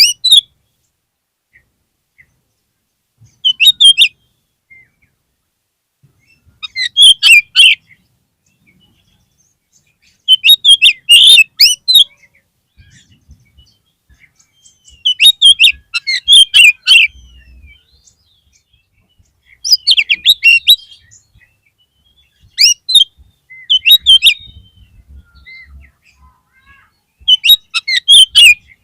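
Oriental magpie-robin (kacer) singing: short bursts of quick, high, varied whistled notes, one phrase every three to four seconds with quiet gaps between.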